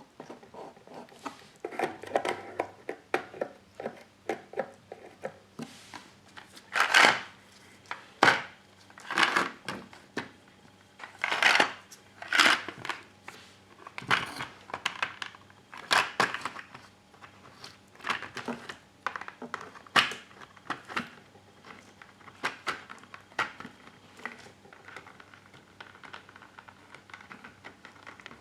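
Irregular crinkling, crunching and tearing of a new parrot toy's material, made up of sharp cracks and rustles, with louder bursts every second or two through the middle.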